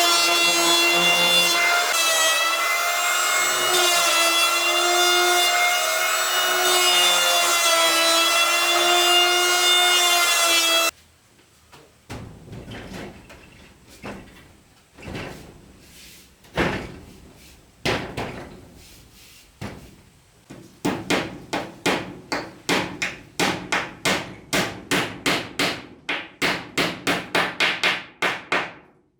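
A power tool working wood runs with a loud, steady whine, then cuts off suddenly about eleven seconds in. Scattered wooden knocks follow, and in the last third they become a fast, even run of strokes, about three a second.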